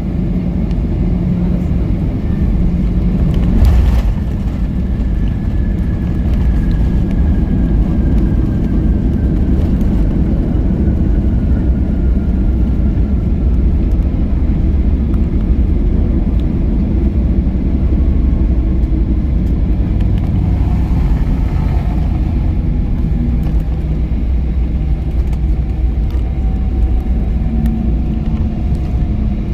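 Airliner cabin noise on the landing roll: a steady low rumble of engines and runway, with a single thump about four seconds in. A faint engine whine slowly falls in pitch, and a second falling whine comes in near the end.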